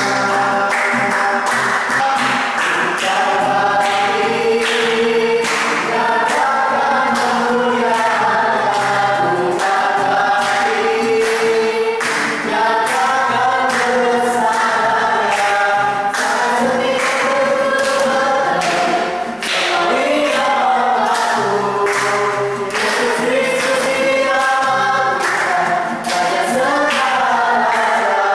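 A group of voices singing a worship song together.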